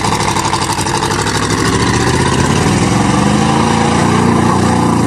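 1988 Chevrolet pickup's 305 small-block V8 running hard under load, getting louder about two seconds in. The engine is missing: it is misfiring.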